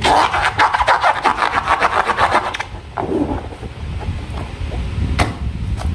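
Slime being worked by hand: a fast run of crackling clicks for the first two and a half seconds or so, then quieter, with a few single clicks and pops.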